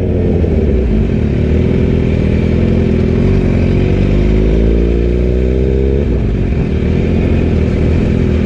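750 cc sport motorcycle engine running under the rider, its pitch rising slowly for about six seconds, then dropping abruptly and holding steady.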